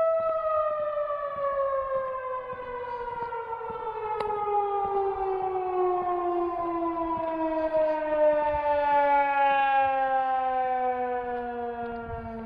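Town noon whistle, a siren, sounding one steady tone that begins winding down right away, its pitch falling slowly and smoothly for the rest of the sounding.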